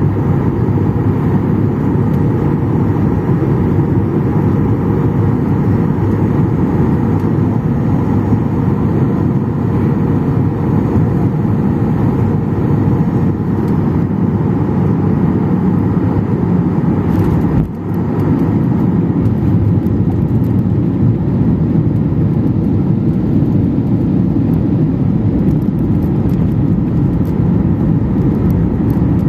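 Steady low roar of engines and airflow heard inside the cabin of a Boeing 737-800, with a brief dip about two-thirds of the way through.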